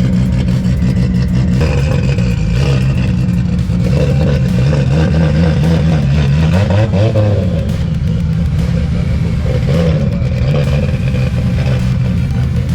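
Car engine idling steadily, with a brief rev that rises and falls in pitch about halfway through.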